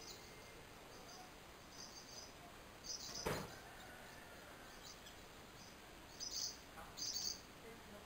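Faint, high, short bird chirps coming in small clusters every second or so, with one sharp click a little past three seconds in.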